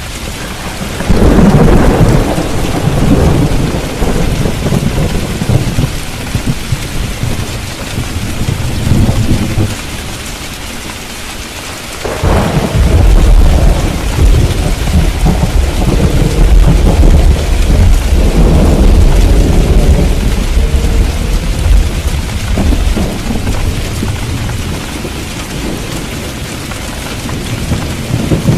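Steady rain with rolling thunder: a long rumble starts about a second in, a longer, louder one about twelve seconds in that lasts around ten seconds, and another begins near the end.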